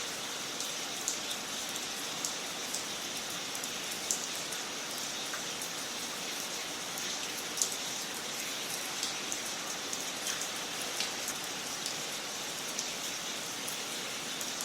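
Wood fire crackling in a fireplace: a steady soft hiss with frequent small sharp pops and snaps, one sharper pop about halfway through.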